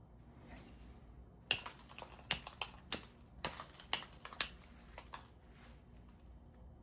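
Flintknapping strikes on stone: about six sharp, ringing clinks roughly half a second apart, with a few lighter taps between them, starting about a second and a half in.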